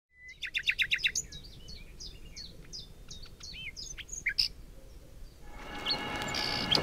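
A songbird singing: a quick run of about eight high notes in the first second, then a string of varied short whistled phrases. A steadier background sound fades in over the last second.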